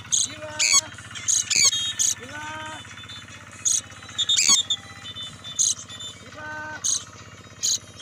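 Birds calling: a dozen short, sharp high chirps scattered throughout, mixed with a few longer, lower pitched calls.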